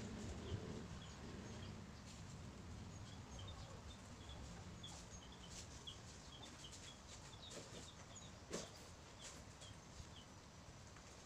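Faint chirping of small birds: many short, high chirps scattered throughout, with a single knock about eight and a half seconds in.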